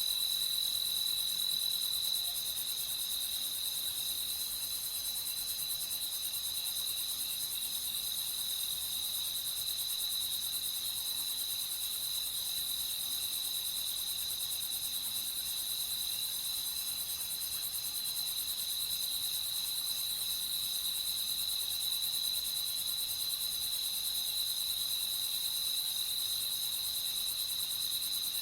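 Crickets chirring steadily in a night chorus, a constant high trill with no pause.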